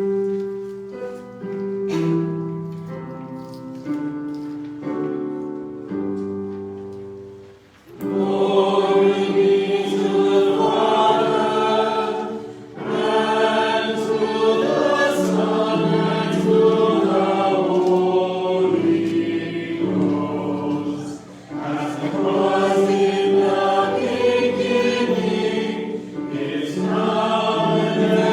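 A hymn sung by a church congregation: about eight seconds of keyboard introduction playing held chords, then many voices sing together with the accompaniment.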